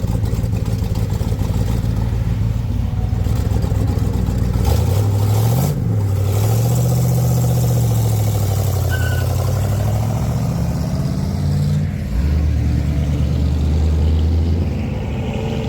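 A car engine running at low revs as it drives off, with a short rev that rises and falls about five seconds in, then settles back to a steady low drone.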